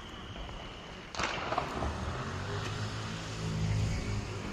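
A small ground firework catches about a second in and keeps up a steady hiss of sparks, over a low steady hum.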